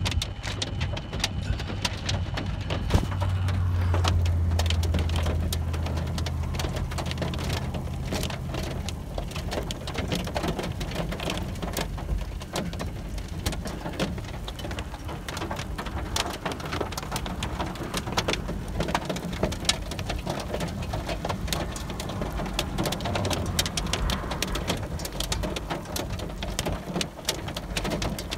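Rain falling in a thunderstorm, with many individual drops ticking sharply close to the microphone. A low rumble swells about three seconds in and fades out by about nine seconds.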